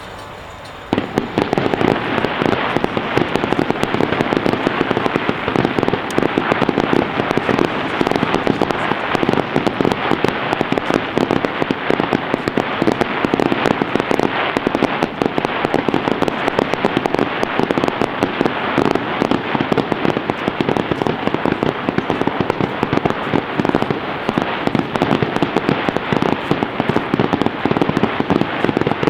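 Fireworks barrage: starting suddenly about a second in, a dense, unbroken string of rapid bangs and crackles.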